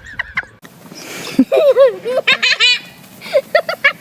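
High-pitched laughter: a person shrieking with laughter in a string of rising and falling squeals, then a run of short bursts of laughter near the end.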